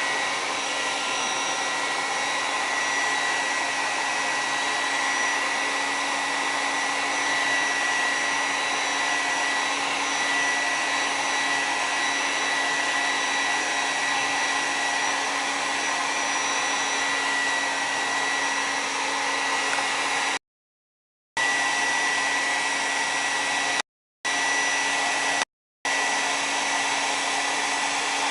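Handheld hair dryer running steadily, blowing hot air over thin slices of beef to dry them into jerky: a constant rush of air with a high motor whine. Three short gaps of complete silence break it near the end.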